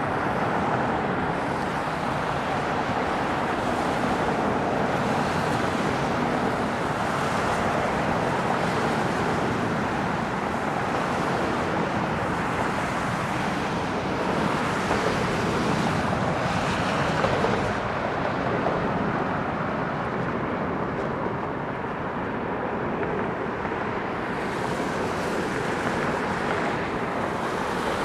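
Steady outdoor rushing noise with no distinct tones or knocks, easing slightly about two thirds of the way through.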